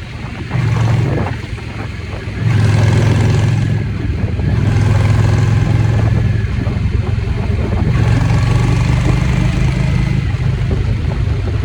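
Motorcycle engine running under way. It eases off briefly twice in the first few seconds, then pulls steadily and drops off near the end.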